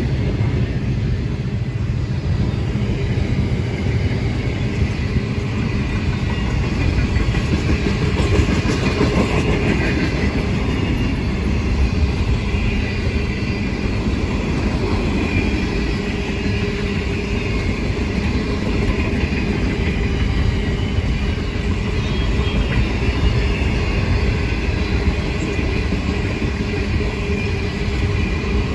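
Freight train's wagons rolling past close by: a steady, heavy rumble and rattle of steel wheels on the rails that keeps on without a break.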